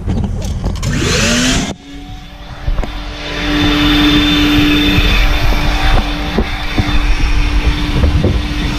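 Coin-operated car-wash vacuum running: a steady droning hum and rushing roar that gets louder about three seconds in, with scattered short knocks as the hose nozzle sucks up debris inside the car.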